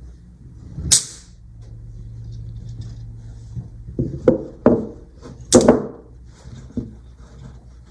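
Small magnetic balls snapping together in sharp clicks, scattered and uneven, the loudest a quick double click just past the middle.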